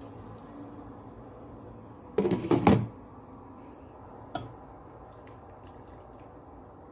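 A brief clatter of household objects being handled, several quick knocks together a little over two seconds in, then a single sharp knock and a few faint ticks, over a steady low hum.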